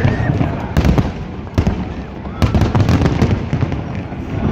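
Aerial fireworks shells bursting in quick clusters of loud bangs, with a constant deep rumble of further bursts between them.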